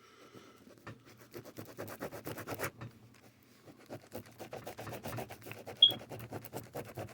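Ballpoint pen scribbling on paper in quick back-and-forth strokes, in two spells, with a brief high squeak during the second. This is an old, dried-out pen, warmed briefly in a microwave, being tried to see whether it writes again.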